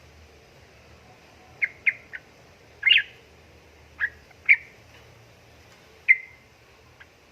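Yellow-vented bulbul (trucukan) giving short, sharp calls in scattered bursts: a quick run of three notes, then single louder calls about a second apart.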